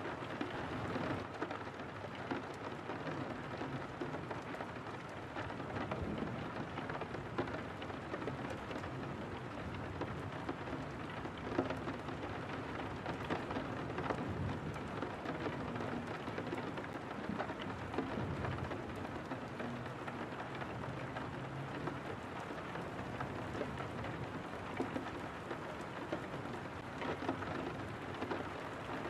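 Steady rain falling on a window pane, many separate drops ticking against the glass over a low rumble.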